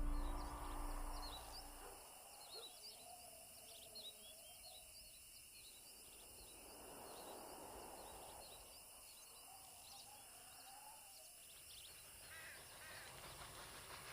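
Faint outdoor ambience of many small birds chirping in quick short notes, with two longer, wavering lower calls. The tail of the music fades out in the first two seconds.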